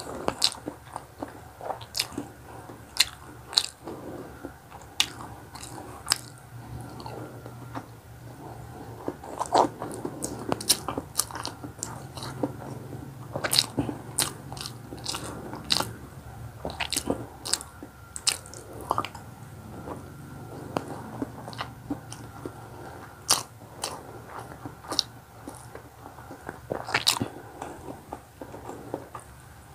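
A person chewing and biting mouthfuls of pancit canton noodles and boiled egg, with frequent sharp, irregular clicks and smacks.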